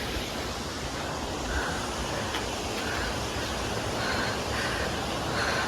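Steady rushing outdoor noise, an even low hiss with no clear events in it.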